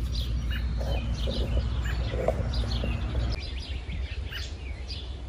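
Several wild birds chirping and singing in quick short calls over a low steady rumble.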